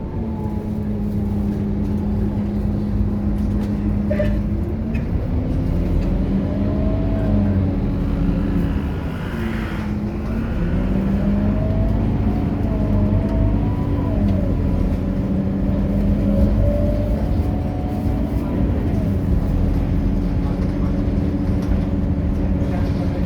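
Scania K230UB city bus's diesel engine running on the move, its pitch dropping as it slows about ten seconds in and climbing again as it pulls away, with a whine rising and falling above it.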